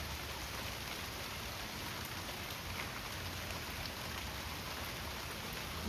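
Rain pelting down on cement, a steady, even patter of drops.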